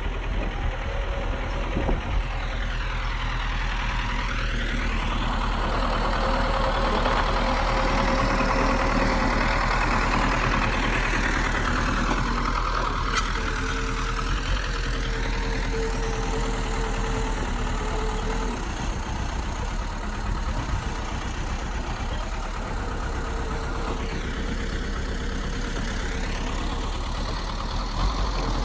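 Heavy diesel engine of a bulldozer running steadily, a little louder for several seconds in the middle, with a slow shifting in its tone as the machine moves.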